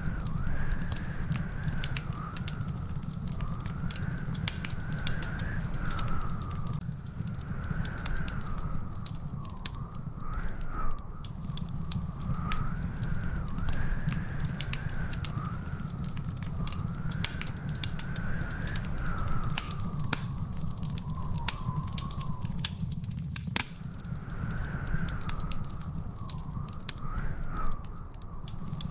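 Wood fire in a fireplace crackling, with dense sharp pops and snaps over a steady low rumble. A thin whistling tone wavers slowly up and down throughout.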